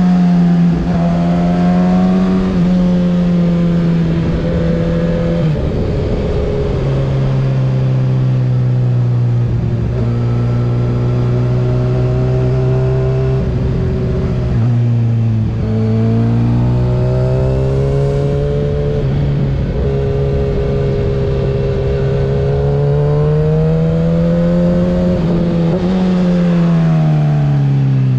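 2024 Kawasaki ZX-6R 636's inline-four with a Graves exhaust, running under way. The engine note holds steady, then drops suddenly about five and a half seconds in at an upshift. It dips and climbs back around the middle, then rises and drops again near the end.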